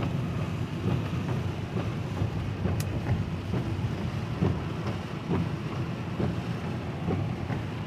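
Steady low rumbling background noise with faint scattered clicks.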